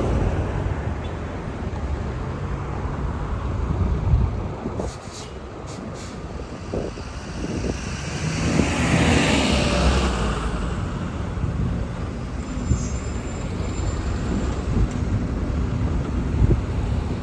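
City buses and road traffic passing with a steady engine rumble. The noise swells as a vehicle goes by about eight to ten seconds in, and there are a few short high hisses about five seconds in.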